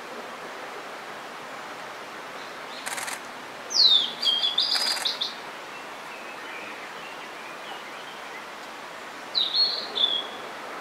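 Blue-and-white flycatcher singing: two phrases of quick, sweeping whistled notes, the first longer and the second shorter near the end, over a steady background hiss. A brief noisy burst comes just before the first phrase.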